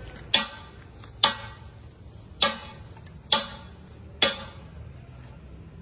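Hammer blows on steel: five sharp metal strikes a second or so apart, each ringing briefly, over a steady low workshop hum.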